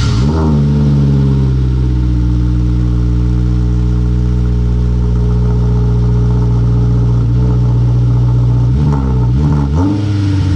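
Honda S2000 engine catching on its first start and flaring up, then idling steadily through its newly fitted high-flow catalytic converter mid pipe, no longer straight-piped. Near the end the revs dip and rise a few times in quick throttle blips.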